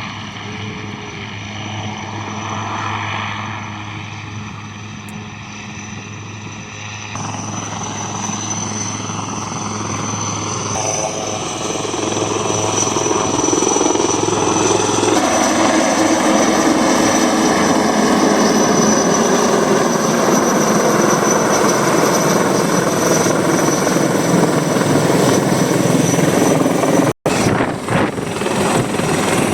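Helicopter turbine and rotor running, growing louder over the first half as it comes closer, then holding loud and steady with a high, steady turbine whine on top. The sound cuts out for an instant near the end.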